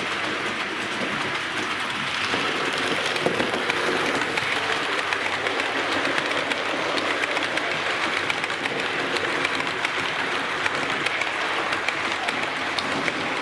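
Bachmann A1 Pacific OO-gauge model locomotive running along the layout: a steady electric motor whir with a quick patter of small clicks from the wheels on the track, growing a little louder about two seconds in.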